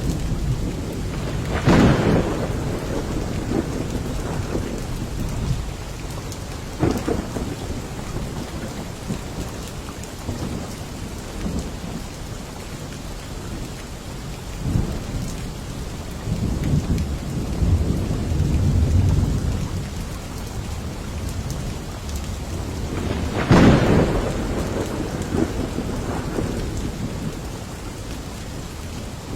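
Steady rain falling, with thunder: a sharp thunderclap about two seconds in and another about three-quarters of the way through, a lighter crack in between, and low rumbling thunder in the middle.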